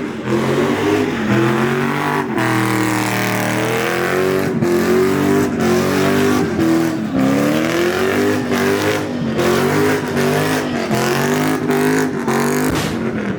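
Car engine revved hard over and over, its pitch climbing and dropping back about once a second, with brief sharp breaks in the sound and a hiss over the top, typical of a car doing donuts or burnouts.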